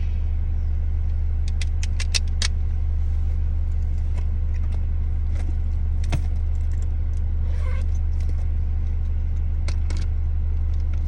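Car engine idling, heard from inside the cabin as a steady low hum, with scattered light clicks and rattles of handling in the car.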